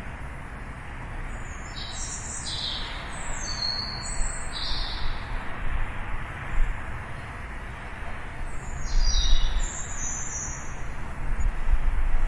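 Small songbirds chirping: two bouts of quick, short high notes, the first near the start and the second about two-thirds of the way through. A steady low rumble runs under them and swells briefly twice near the end.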